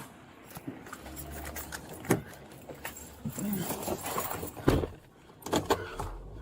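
Rattling and several sharp knocks, the loudest about two seconds in and just before five seconds, over the low rumble of a car engine, which fades for a moment before the end.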